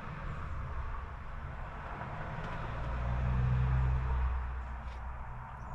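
Low rumble of a passing motor vehicle, swelling to its loudest about three to four seconds in and then fading, over a steady background hiss.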